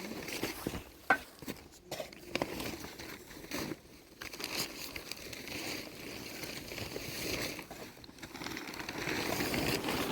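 Rustling and crinkling, with scattered clicks and a sharp knock about a second in.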